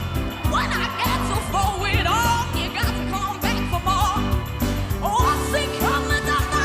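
A young girl singing solo in a soul-rock style, her voice sliding and bending between notes, over a full band backing with a steady drum beat.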